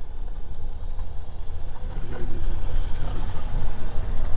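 Vehicle driving, with a heavy, buffeting low rumble of road and wind noise on the microphone that grows a little louder.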